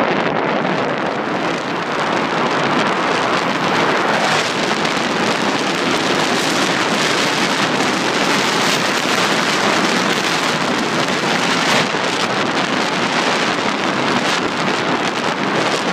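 Storm-force north wind driving rough, high waves on a lake: a steady, loud rushing noise, with gusts buffeting the microphone.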